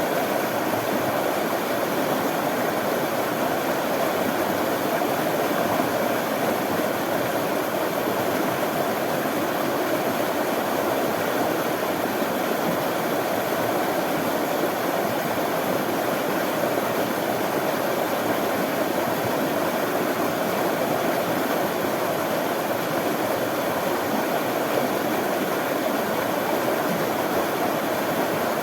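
Running water flowing steadily in a continuous, even wash of sound, with no breaks or changes.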